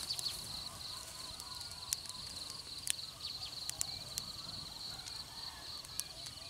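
An insect trilling steadily at a high pitch, with a few brief breaks, over outdoor ambience, with scattered sharp clicks.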